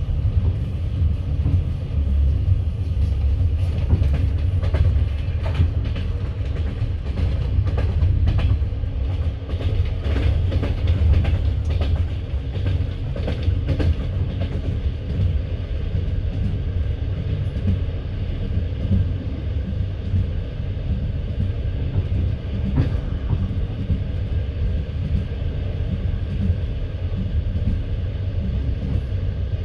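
Passenger train carriage wheels running on the track: a steady low rumble with clattering over rail joints, the sharp clicks and knocks crowding together through the first half, then one strong knock a little after the middle.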